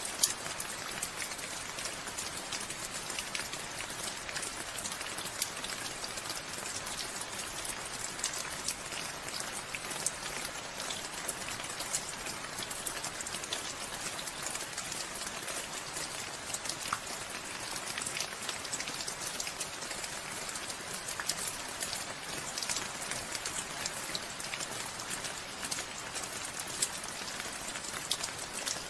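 Steady rain falling, with many separate drop ticks over an even hiss.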